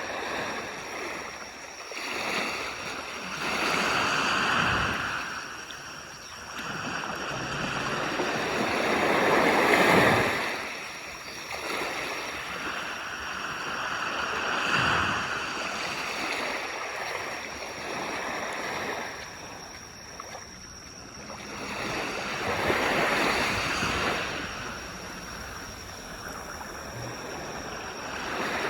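Sea waves breaking and washing up on a beach, surging and falling away again every five or six seconds, the loudest surge about ten seconds in.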